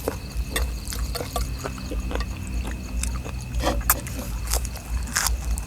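Eating sounds: chewing with irregular small clicks and smacks scattered throughout, over a steady low hum.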